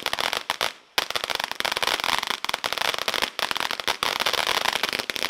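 Miracle Fireworks 'Waffle Cone' ground fountain spraying, with dense rapid crackling throughout and a brief lull just before a second in.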